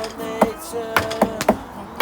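Improvised acoustic percussion music: sharp strikes keep a steady beat of about two a second, with a few extra hits, under held pitched notes.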